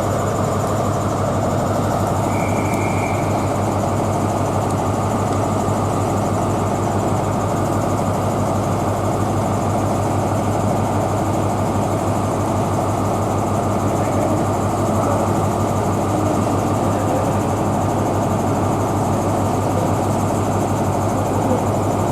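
Class 43 HST power car's diesel engine idling steadily with a deep, even drone. A brief high beep sounds once about two and a half seconds in.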